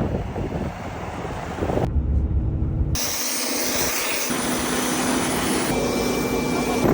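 Helicopter turbine and rotor running, with steady high whining tones over the engine noise. The sound changes abruptly about two and three seconds in, as between separately recorded shots.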